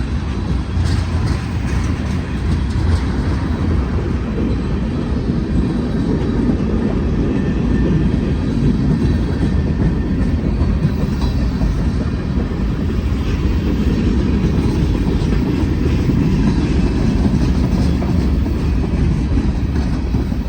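Union Pacific freight train rolling past, a steady loud rumble of wheels on the rails.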